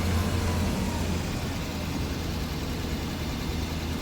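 Engine and road noise inside a moving converted school-style church bus: a steady low drone under a wash of rumble, with a faint whine that fades out about a second in.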